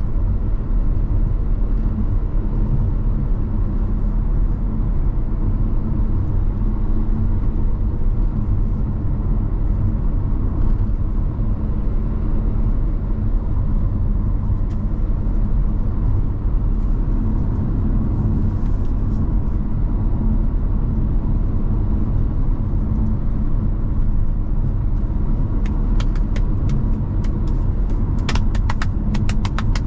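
Steady low rumble of a car driving along, engine and tyre noise heard from inside the moving car. Near the end comes a run of sharp, irregular ticks or taps.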